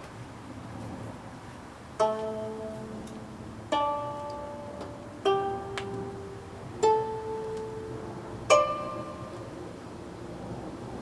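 Gayageum, the Korean twelve-string zither, played slowly: after a quiet opening, five single plucked notes about a second and a half apart, each striking sharply and ringing out as it fades.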